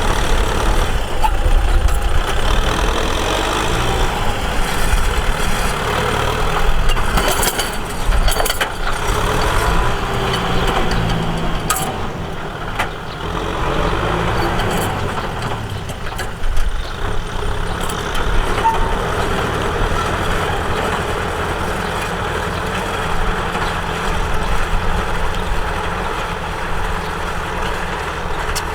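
Tractor engine running steadily as it works, with a few sharp knocks or rattles about seven to nine seconds in and again around twelve seconds.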